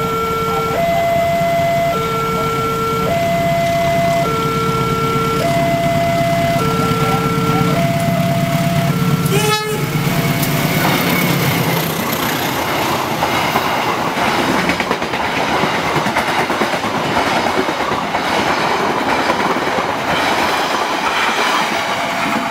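A railway level crossing's electronic warning alarm sounds two tones in turn, each held about a second, over the low rumble of an approaching diesel locomotive. About ten seconds in the alarm gives way to the loud rush and wheel clatter of a passenger train passing close by.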